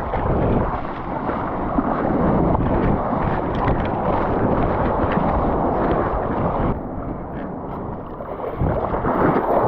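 Wind buffeting the microphone over the rush of sea water. The noise eases for about two seconds from roughly seven seconds in, then picks up again.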